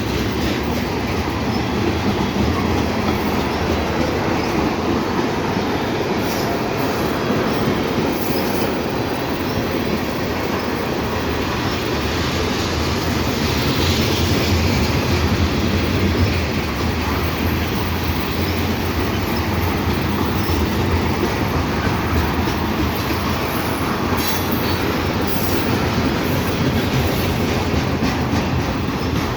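A long CN freight train of loaded cars rolling past, its steel wheels running steadily on the rails.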